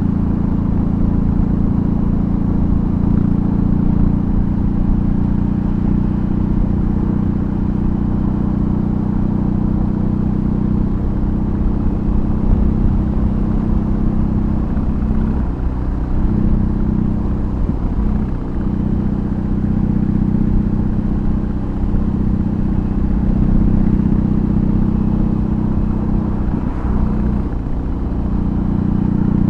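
A BMW R18's 1802 cc boxer twin, with a custom exhaust, running steadily at cruising speed. Its low note dips briefly a few times about halfway through and again near the end, as the throttle is eased or a gear is changed.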